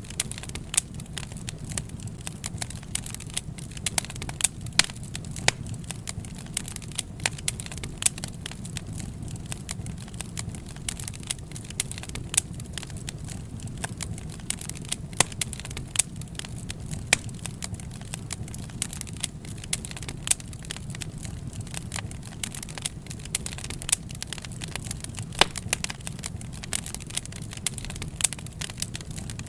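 Wood fire crackling, with sharp snaps at irregular intervals, several a second, over a steady low rumble.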